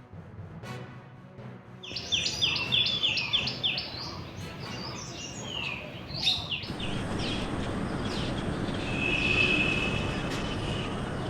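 Small birds chirping in quick runs of short falling notes over outdoor background noise, after the last of a music theme. About two-thirds of the way through, this gives way to a steady, louder outdoor noise with a brief high held note.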